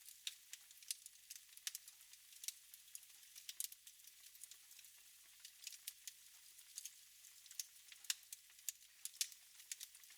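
Wood fire burning in a fireplace, crackling faintly: irregular sharp pops and snaps over a soft hiss.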